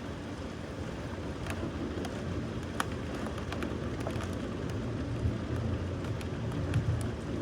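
Rain falling steadily over a low rumble, with scattered sharp ticks of drops striking a hard surface. The rumble swells a little over the second half.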